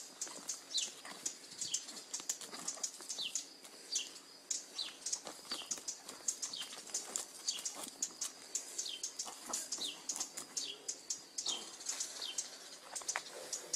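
Small songbirds chirping over and over, short high chirps that slide downward, about two a second, with faint scuffling on dry ground from two cats wrestling; the cats make no yowl or hiss.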